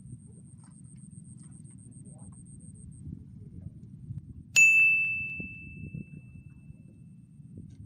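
A single bright metallic ding about halfway through, like a small bell struck once, ringing out and fading over about two seconds over a steady low outdoor rumble.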